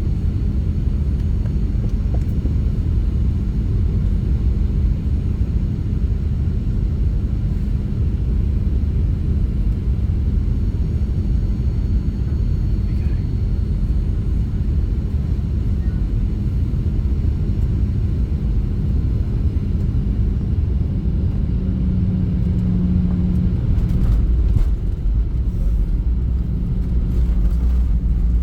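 Cabin noise of a Boeing 737-800 with CFM56 engines during the approach and landing: a loud, steady rumble of engines and airflow with a steady hum. About 24 seconds in come a few sharp knocks, and after them the low rumble grows louder.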